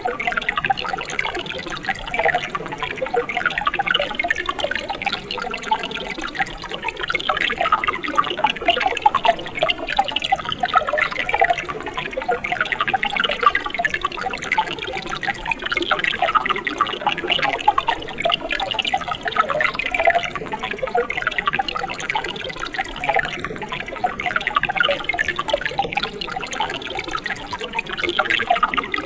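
Mountain stream water splashing and gurgling over rocks, a steady dense babble of small splashes.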